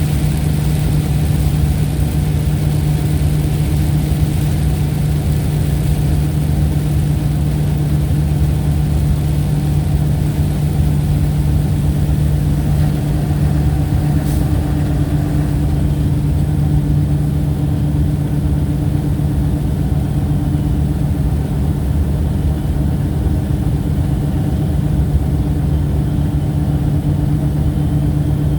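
A steady, unchanging mechanical drone with a strong low hum, like an engine running at idle.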